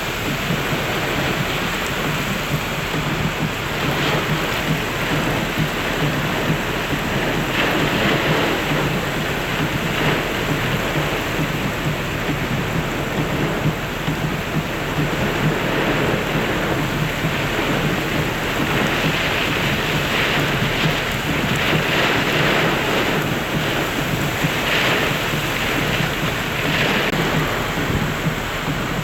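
Heavy rain pouring steadily during a severe thunderstorm, a dense even hiss that swells and eases.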